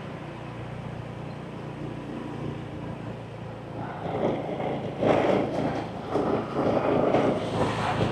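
Scooter engine running at low speed with road noise while riding. It gets louder from about four seconds in, with wind rushing on the microphone.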